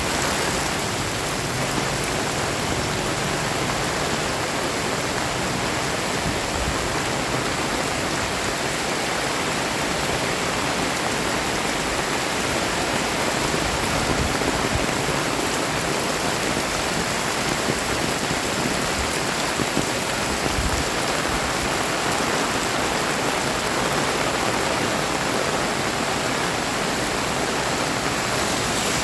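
Heavy rain pouring down steadily, a dense even hiss of rain hitting the ground and surfaces.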